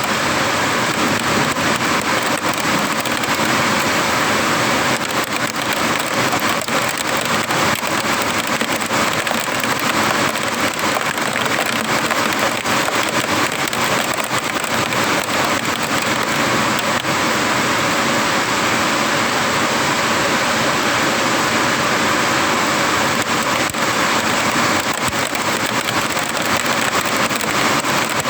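Rain falling steadily during a thunderstorm, a constant hiss dotted with many small drop impacts.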